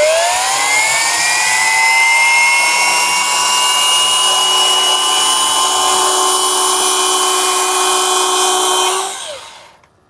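Electric motor of a handheld water-fed concrete circular saw running up to speed with a rising whine. It then runs steadily at a high pitch. About nine seconds in it is switched off and winds down to a stop.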